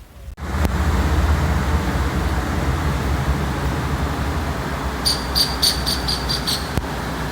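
Harley-Davidson motorcycle running at road speed: a steady low engine rumble under wind and road noise. Near the end comes a quick series of about eight high, evenly spaced chirps.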